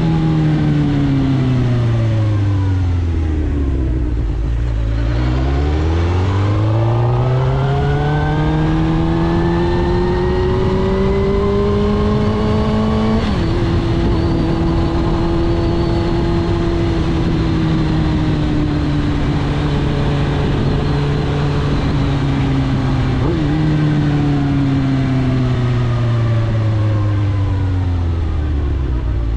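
2006 Suzuki GSX-R1000 K6 inline-four engine breathing through a full Akrapovič titanium exhaust, heard while riding. Revs fall for the first few seconds, then climb steadily for about eight seconds. They drop suddenly at an upshift about 13 s in and hold fairly even. Near the end a downshift blip lifts the revs, which then fall away.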